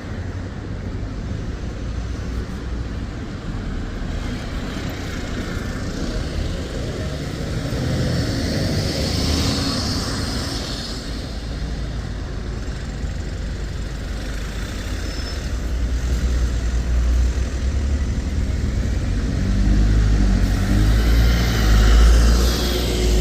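Road traffic with buses: a steady low diesel engine rumble and road noise, which swells louder near the end as a vehicle comes close.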